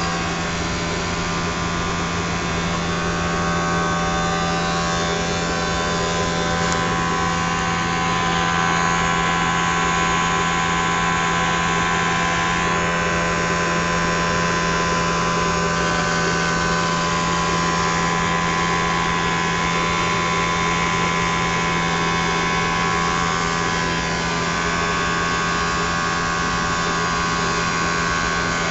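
Triangle blower motor running steadily: a constant low hum with several steady whining tones above it, over an even rush of air.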